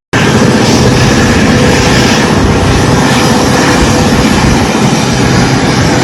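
Bombardier Global 6500 business jet's engines running loud and steady on the ground, heard close up as a continuous rushing roar with a low hum, starting abruptly after a brief drop-out.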